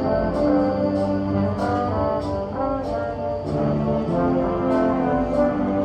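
Wind ensemble playing sustained brass chords that shift every half second or so, with scattered percussion strikes.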